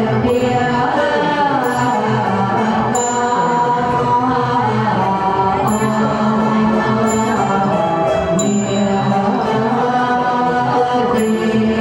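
Ritual chanting set to music: voices chant a sustained, gliding melody, and a small high-pitched bell is struck several times at irregular intervals.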